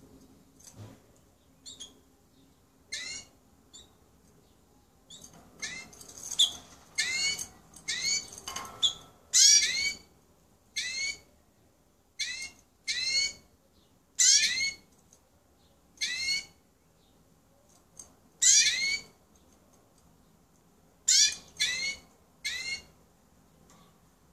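Domestic canary singing in short separate bursts of high, quickly gliding whistled notes, with pauses of about a second between bursts.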